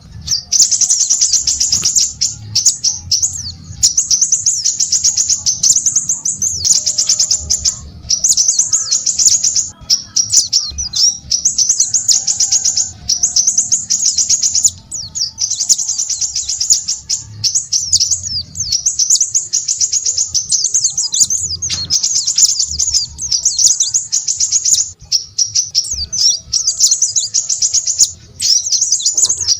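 Small songbird singing a rapid, high-pitched twittering song in long phrases of one to three seconds, with brief pauses between them.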